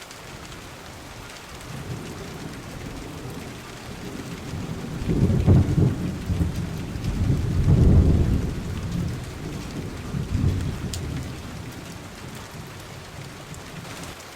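Steady rain with a long roll of thunder that builds from about two seconds in, peaks twice near the middle with a smaller swell after, and fades out toward the end.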